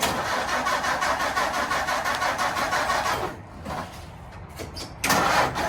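An engine being cranked over by its starter in a rapid, even rhythm for about three seconds, a short lull, then it catches and starts running about five seconds in.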